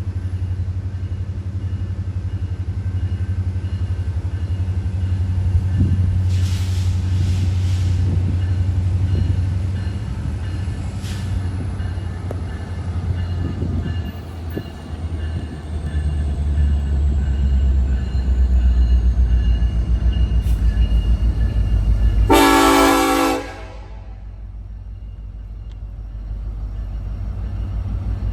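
Diesel freight train rumbling past, with one short horn blast about 22 seconds in, after which the sound drops abruptly and then swells again.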